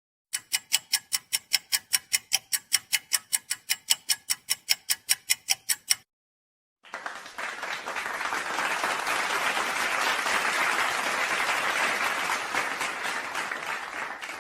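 A rapid, even ticking, about four or five clicks a second, for about six seconds. After a short pause, crowd applause follows for about eight seconds.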